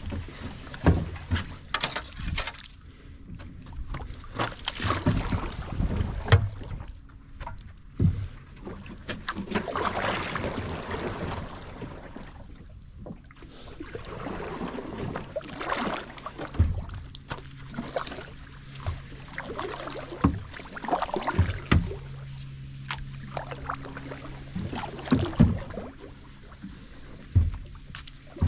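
Kayak paddling: irregular paddle strokes swishing through the water and sharp knocks of the paddle against the hull. A steady low hum comes and goes in the second half.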